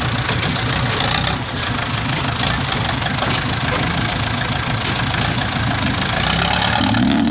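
Diesel dump truck engine running steadily with a low, even drone and some clatter.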